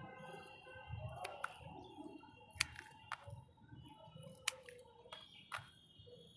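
Scissors snipping the stems of a jade plant as it is trimmed: about six short, sharp clicks, irregularly spaced a second or so apart.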